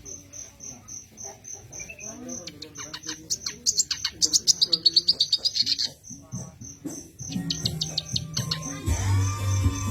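Kerak basi (reed warbler) singing loud, fast runs of high, rapidly repeated notes in two spells, over an even high insect-like chirp pulsing several times a second. This is the bird's full, energetic 'gacor' song, used as a lure. A low musical beat comes in near the end.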